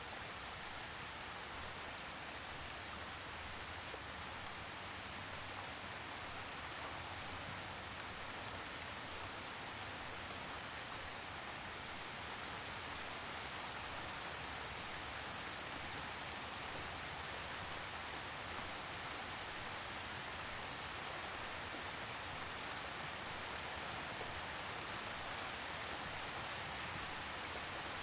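Steady gentle rain falling on a surface, a soft even hiss with faint scattered drop ticks.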